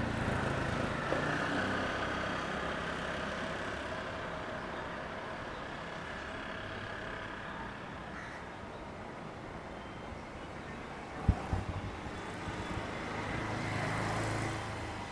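Street ambience with motor vehicles running and passing on a road, a steady rumble of traffic with one passing louder near the end. A single sharp knock about eleven seconds in is the loudest sound.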